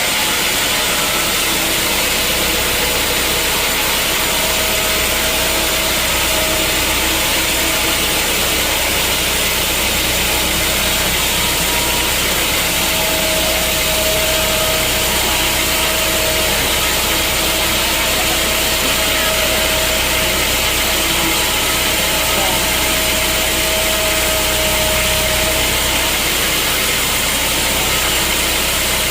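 Sawmill machinery running steadily: a continuous engine-like hum and rush with no breaks, and a faint thin whine that fades in and out.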